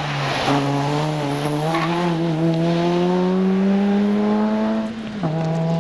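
Peugeot 106 competition hatchback's engine pulling hard under full throttle, its revs climbing steadily for about four seconds, then dropping suddenly near the end.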